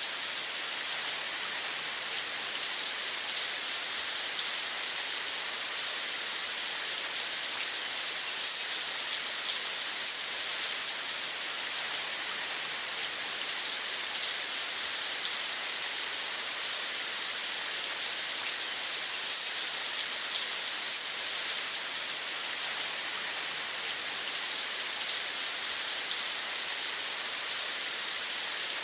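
Steady rain falling: an even, unbroken hiss of many small drops.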